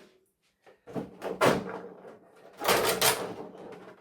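Parts of a broken television being handled and set down: two bouts of rattling clatter, about a second in and again near three seconds, after a brief moment of quiet.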